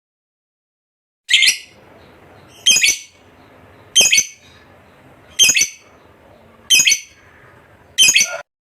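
Lovebird calling: six short, shrill calls at an even pace, about one every second and a half, starting about a second in.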